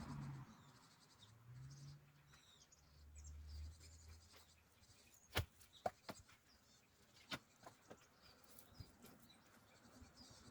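Near silence, with a low vehicle hum dying away in the first few seconds and faint high bird chirps. A few light sharp knocks come around the middle, the loudest about five seconds in.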